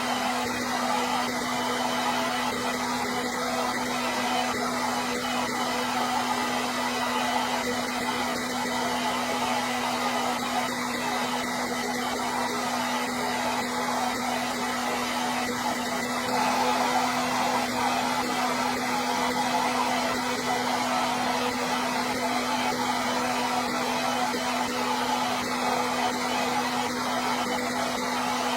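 Hair dryer running steadily: a constant rush of blown air over a steady low motor hum.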